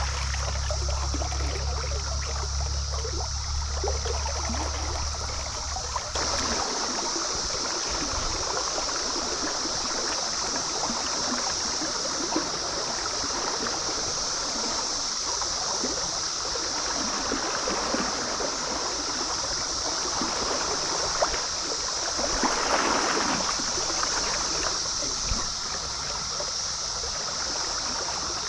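Stream water running steadily over rocks, with a constant high-pitched hiss over it. A low rumble under the water sound cuts off about six seconds in, and the water swells briefly louder a little after two-thirds of the way through.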